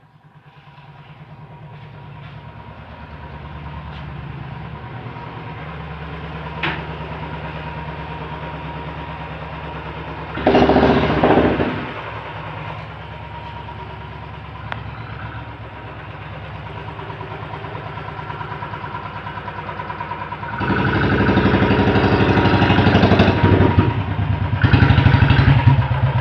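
An engine running steadily close by, growing louder over the first few seconds, with two louder surges: one about ten seconds in and a longer one from about twenty seconds in.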